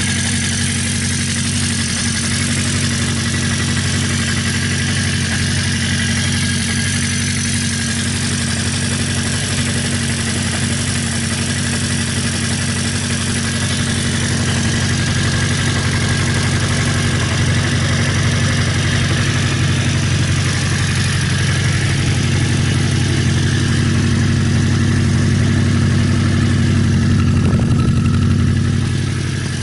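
Honda CB400F 408cc air-cooled inline-four motorcycle engine idling steadily through an aftermarket muffler. It gets slightly louder in the second half and drops back near the end.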